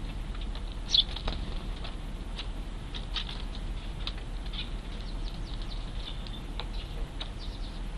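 Juvenile Eurasian tree sparrows calling in short, high chirps, scattered and overlapping. The loudest chirp comes about a second in.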